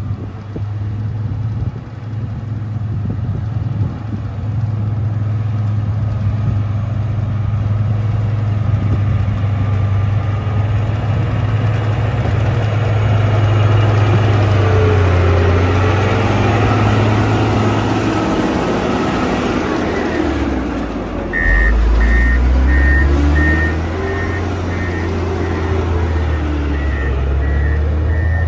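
Motor grader's diesel engine running steadily. About three quarters of the way through the note changes and its reversing alarm starts beeping, about two beeps a second, as the grader backs up.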